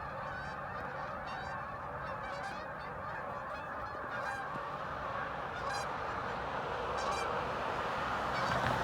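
A large flock of geese honking all together in flight, a dense, continuous, really loud clamour of overlapping calls that grows a little louder near the end.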